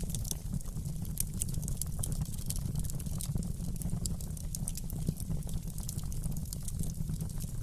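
Wood fire in a fireplace crackling: frequent sharp pops and snaps over a steady low rumble.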